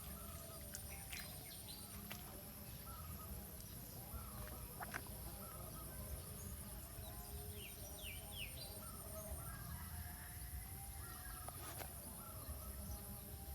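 Faint outdoor background with a few short bird calls and scattered small clicks over a low steady rumble.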